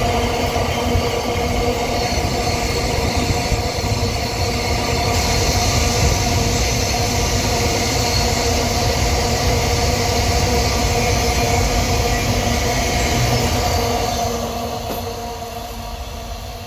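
Empty iron-ore freight train rolling past: a steady rumble of wheels on rail with steady ringing tones over it, fading away about fourteen seconds in.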